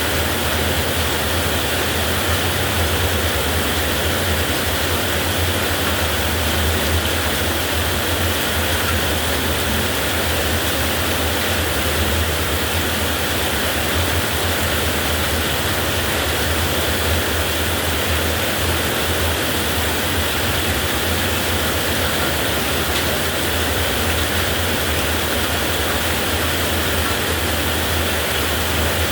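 Heavy rain falling steadily: an even, unbroken hiss with a low rumble underneath and no thunderclaps.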